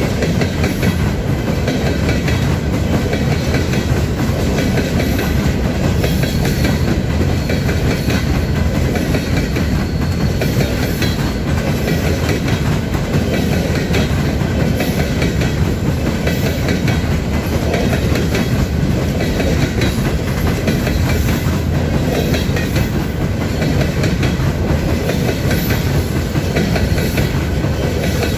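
Freight train's open-top hopper cars rolling past close by: a steady rumble of steel wheels on rail, with recurring clicks as the wheels cross rail joints.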